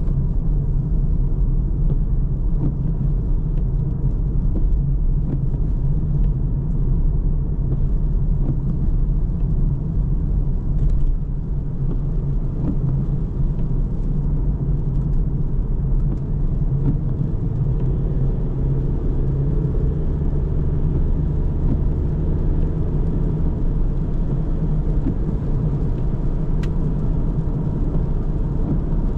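A car driving along a road: steady low rumble of tyres and engine.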